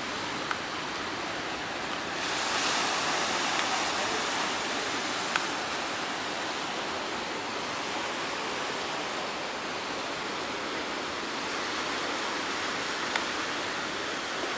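Large sea waves breaking, a steady rushing surf that swells louder about two seconds in and then eases, with a couple of brief clicks.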